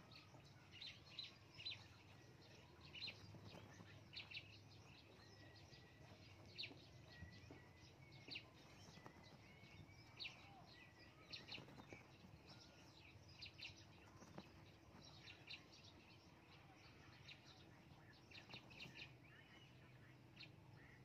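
Faint, irregular short high chirps of small birds, dozens of them scattered throughout, over a faint low hum.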